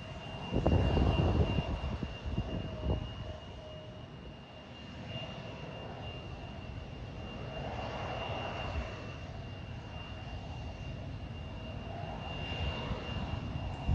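Aircraft engines running with a steady high whine, the sound swelling and fading as they carry; a heavy low buffeting in the first few seconds.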